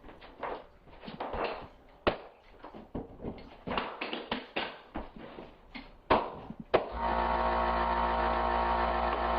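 Irregular knocks and clatter of hardwood flooring boards being handled and tapped into place, with a few sharper strikes. About seven seconds in, a steady hum made of many held pitches starts and carries on.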